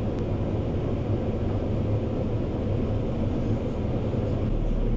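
Bergmann C815 all-terrain dump truck's diesel engine running steadily, with a deeper low hum coming in near the end.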